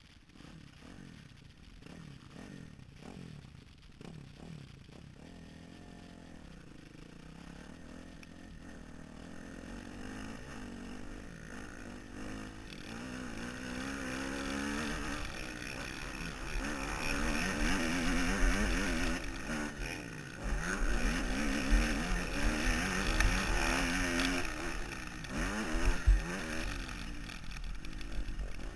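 Motocross dirt bike engine revving up and down again and again as it is ridden, growing louder as it goes. A deep rumble of wind on the helmet-mounted microphone builds from about halfway.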